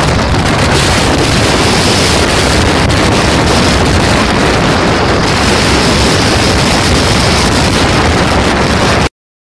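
Strong wind buffeting the microphone, a loud steady rush with sea surf mixed in. It cuts off abruptly near the end.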